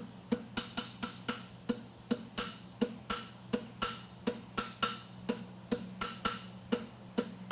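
Hammer blows on a red-hot steel horseshoe on the anvil, turning the shoe's branches. The blows come at a steady rhythm of about three a second, each one ringing, over a steady low hum.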